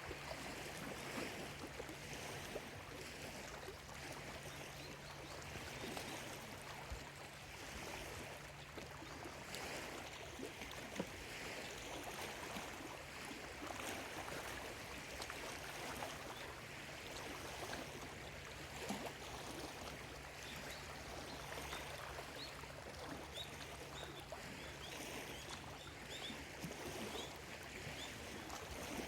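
Small lake waves lapping and splashing at the shoreline in uneven swells, over a faint steady low hum.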